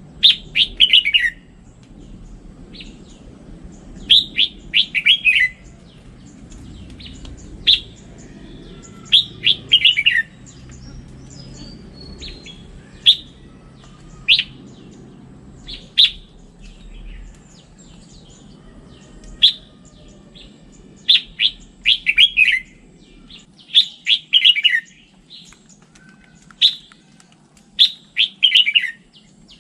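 Red-whiskered bulbul singing: short bursts of quick, clear notes that fall in pitch, repeated every few seconds with single sharp notes between the phrases.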